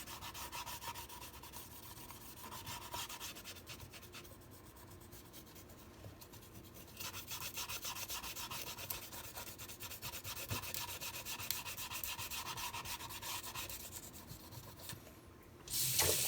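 Fast back-and-forth scrubbing of a rusty steel chef's knife blade with wet kitchen cleanser to scour the rust off; the rubbing eases off for a few seconds in the middle and then picks up again. Near the end a tap is turned on and water runs.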